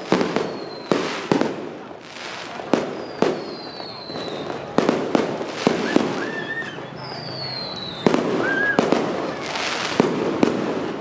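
Fireworks going off at a temple festival: sharp bangs at irregular intervals over steady crackling, with several short whistles falling in pitch.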